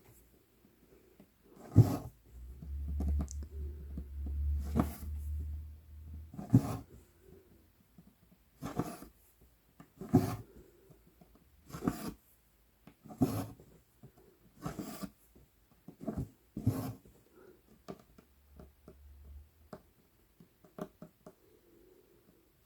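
Cross-stitch needle and embroidery floss being pushed and pulled through 11-count Aida fabric, a short rasping stroke about every one and a half seconds. A low rumble runs for a few seconds after the first stroke.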